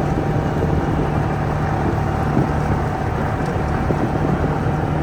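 A vehicle's engine running steadily as it drives, a continuous low hum.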